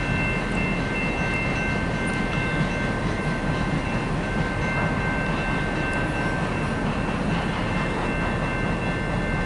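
Autorack freight train rolling past: a steady rumble of the cars on the rails, with a few steady high-pitched tones ringing over it.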